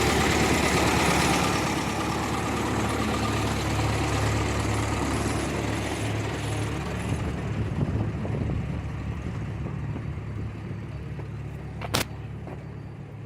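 Tractor engine running steadily and getting gradually quieter, with a sharp click about twelve seconds in.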